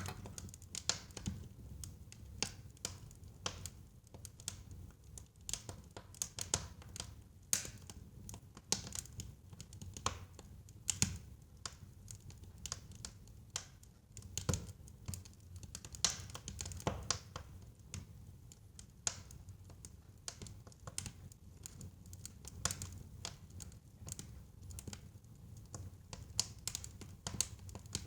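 Wood fire crackling in a fireplace: irregular sharp pops and snaps, several louder ones scattered through, over a low steady rumble of the flames.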